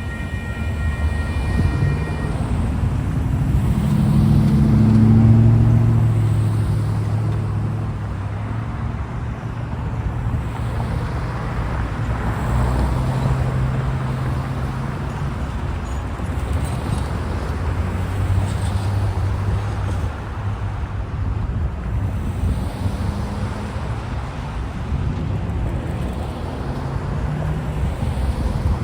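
Diesel engine of a Siemens SC-44 Charger locomotive running under power as an ACE commuter train pulls away, loudest about five seconds in and then settling into a steady rumble. A set of high steady tones stops about two seconds in.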